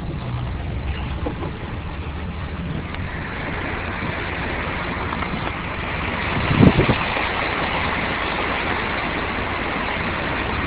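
Car driving through floodwater: the engine runs low and steady while water hisses around the car, the hiss growing louder after a few seconds. A single thump comes about two-thirds of the way in.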